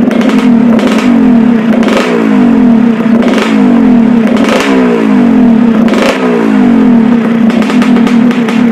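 Yamaha RX-King's two-stroke single-cylinder engine running during carburettor tuning, with short throttle blips every second or so.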